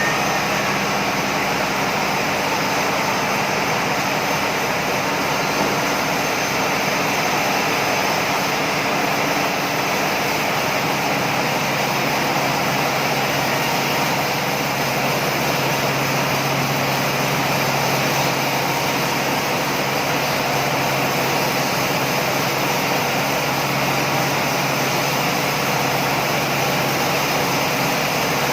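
Sawmill machinery running steadily: a dense, even mechanical drone with a low hum that does not change.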